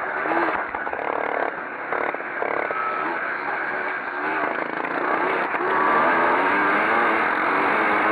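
Several pre-1965 motocross motorcycles racing, their engines revving up and down over one another, growing louder about five seconds in.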